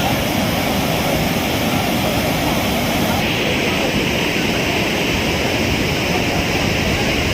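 Water overflowing an irrigation tank, rushing over the spillway as a loud, steady noise.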